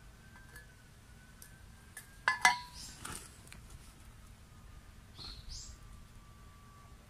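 Birds chirping, with a short high call about five seconds in. A sharp clink with a brief ring, about two and a half seconds in, is the loudest sound.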